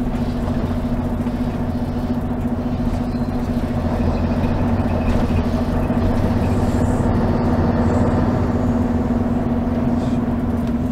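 Mercedes-Benz O 403 SHD coach's V8 diesel engine running with a steady, even drone, heard from inside the bus.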